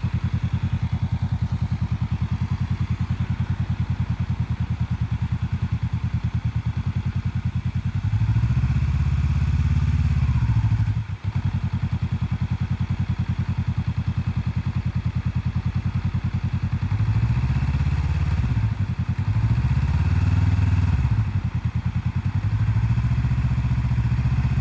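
Motorcycle engine idling with a steady low pulse. The revs rise and fall four times as throttle is given to find the clutch's friction zone, and about eleven seconds in the sound briefly drops out sharply.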